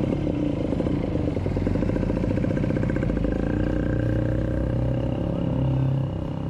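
A motor vehicle's engine running steadily, a little quieter near the end.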